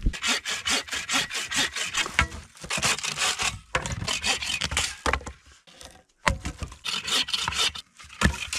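Hand saw cutting through wood in quick back-and-forth strokes, about four a second, stopping briefly a few times.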